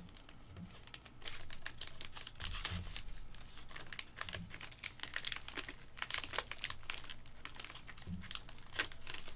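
Plastic crinkling and rustling, an irregular run of small crackles, as trading cards in their plastic sleeves and packaging are handled.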